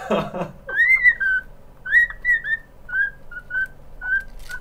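Cockatiel whistling its song: a string of short, clear whistled notes, several of them arching up and down in pitch, coming about every half second. A brief harsh, scratchy sound opens it.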